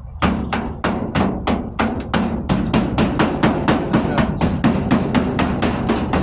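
Autobody pick hammer striking the rusted sheet-metal wheel arch of a pickup bed again and again, about three to four blows a second, knocking loose body filler and probing for weak, rusted metal.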